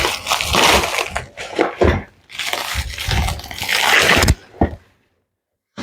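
Plastic wrapping being cut and pulled off a cardboard shipping box, crinkling and tearing in irregular bursts, then stopping abruptly near the end.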